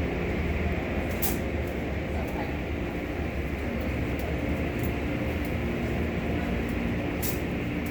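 Belanger car wash tunnel machinery running: a steady low mechanical hum and rumble, with two brief sharp high sounds, about a second in and near the end.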